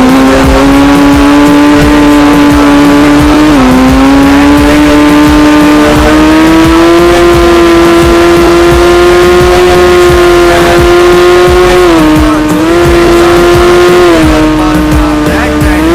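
Sport bike engine held at high revs, one steady loud tone that climbs slowly. The pitch dips briefly and recovers about four seconds in and twice more near the end.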